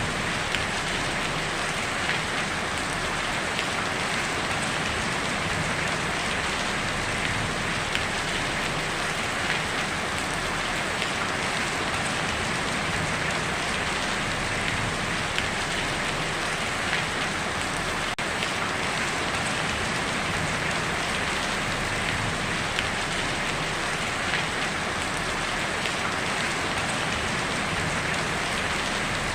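Heavy rain falling steadily on a tin roof, an even patter with scattered louder drop hits.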